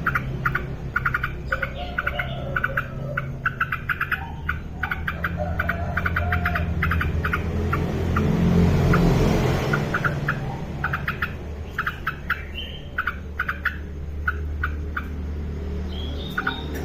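Yellow-vented bulbul (trucukan) calling actively: quick runs of short, rapidly repeated chattering notes, over a steady low hum. A rushing noise swells and fades about halfway through.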